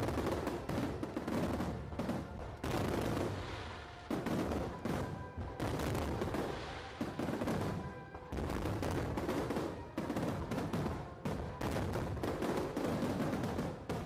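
Aerial fireworks going off in rapid, overlapping volleys of bangs and crackles, with short lulls every couple of seconds. Music plays faintly underneath.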